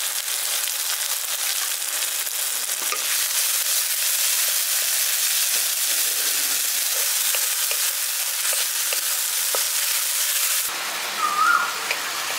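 Ginger-garlic paste frying in hot mustard oil with onion and tomato in a wok: a steady sizzle, with the wooden spatula ticking against the pan as it is stirred. The sizzle drops in level shortly before the end.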